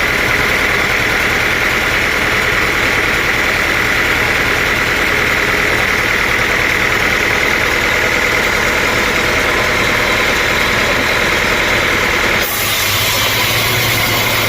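Sawmill machinery running steadily with a constant whine. The sound changes abruptly about two seconds before the end.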